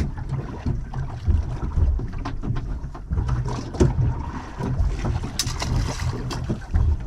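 Wind buffeting the microphone on a small anchored fishing boat, with scattered knocks and clicks from handling gear aboard.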